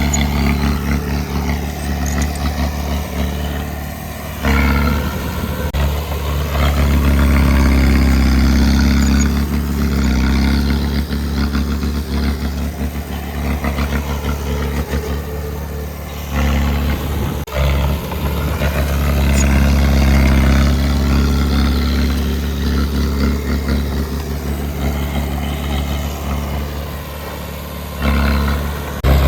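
Heavy earthmoving machine's diesel engine running under load. Its sound steps up sharply three times, about every twelve seconds, and eases off between.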